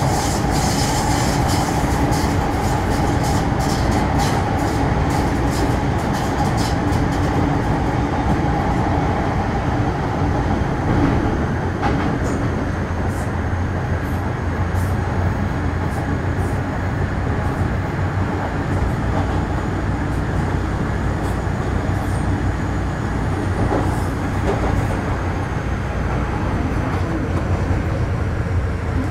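Running noise heard from inside an MTR Metro Cammell M-Train (CM-Stock) car with GEC GTO chopper traction, travelling between stations: a steady rumble with a whine that fades out about ten seconds in, and scattered ticks from the wheels, thickest in the first few seconds.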